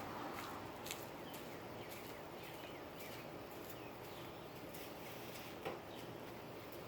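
Faint outdoor background with scattered sharp clicks and a few short falling chirps, one click louder shortly before the end.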